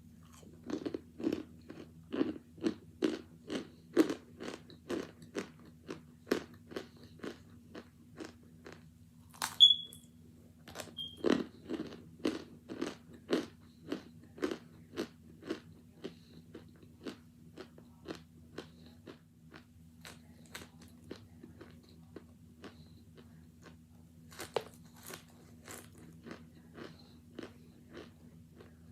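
Close-up crunching and chewing of hard chunks of cornstarch, with crisp bites about two a second at first that grow sparser and fainter in the second half. About ten seconds in there is one sharp click with a brief high ring, the loudest sound.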